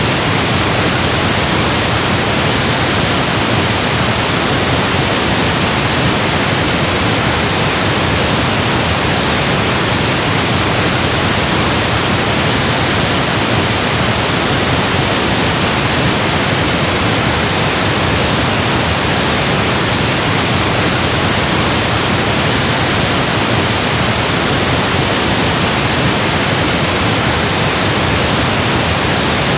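Steady electronically generated pink noise: an even hiss spread across all pitches, unchanging throughout.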